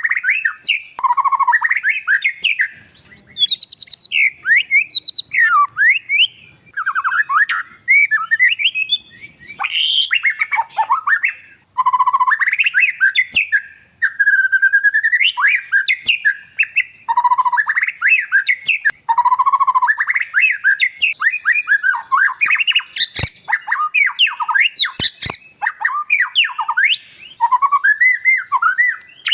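Oriental magpie-robin (kacer) in full song: fast runs of varied whistled notes and harsh chattering phrases, in bursts of a second or two with short pauses between. There are two sharp clicks about three quarters of the way through.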